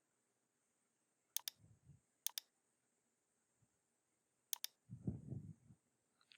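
Computer mouse button clicking three times, each click a quick press-and-release pair, as sketch lines are drawn in CAD software. There is a soft low rustle after the first click and a longer one near the end.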